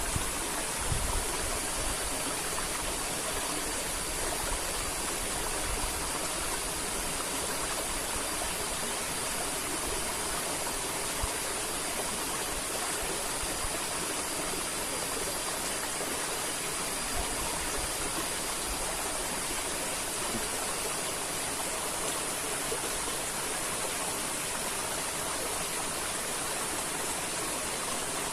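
River water flowing with a steady, even rush. A faint, steady high-pitched tone sits over it from about a second in until about two-thirds of the way through.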